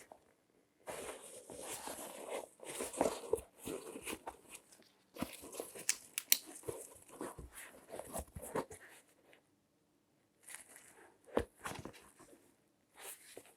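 Latex-gloved hands handling objects close to the microphone: two long stretches of rustling and crinkling with sharp taps, then a pause and a few short bursts near the end.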